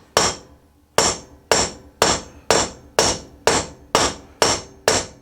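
Hammer blows driving an old, worn wheel bearing out of a 1962 KTM Ponny scooter's front wheel hub. There are about ten sharp metallic strikes, roughly two a second at a steady pace, each with a short ring.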